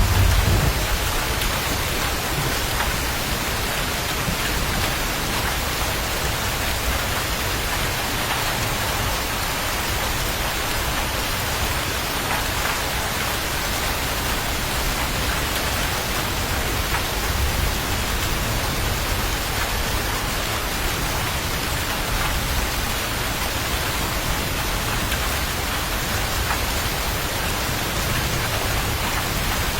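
Steady rain falling, an even, continuous hiss. A low rumble of thunder dies away in the first second.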